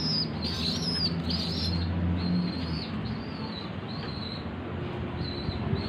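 Young domestic pigeons (squabs) peeping over and over in short, high, thin calls, about one or two a second, the begging call of chicks waiting to be fed.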